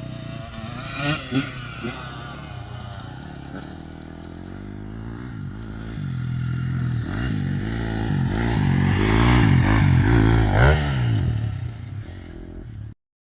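Dirt bike engine revving, its pitch rising and falling over and over and growing louder as it nears, with a few knocks and clatters early on; the sound cuts off suddenly near the end.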